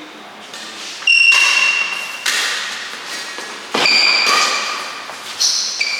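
Badminton rally in a large hall: rackets striking the shuttlecock in sharp hits about every second and a half, each followed by brief high ringing tones.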